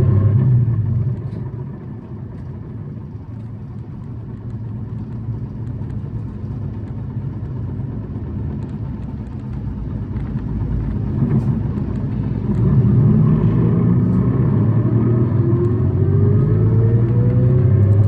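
City bus engine and drivetrain heard from inside the bus, which is noted for high revving and an abnormal noise. The engine lets off about a second in, runs quieter for about ten seconds, then pulls hard again from about 12 seconds with a whine that climbs steadily in pitch as the bus accelerates.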